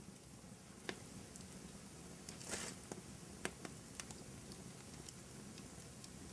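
Wood fire burning in a fireplace: scattered sharp crackles and pops over a low steady rumble. A short cluster of crackles comes about two and a half seconds in, and the loudest pop about a second later.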